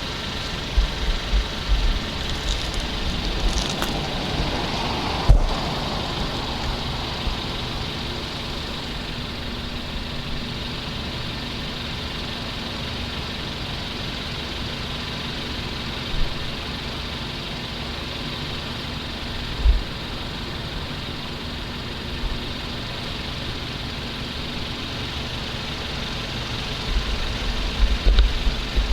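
A motor vehicle engine idling steadily, with gusts of wind buffeting the microphone and a single sharp click about five seconds in.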